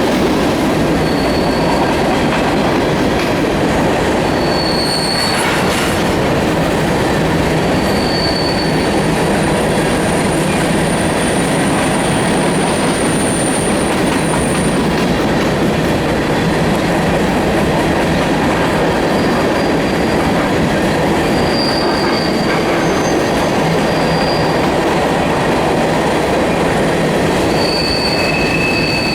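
Freight train of grain hopper cars rolling past in a steady, continuous rumble, with brief high-pitched wheel squeals cutting in and out several times.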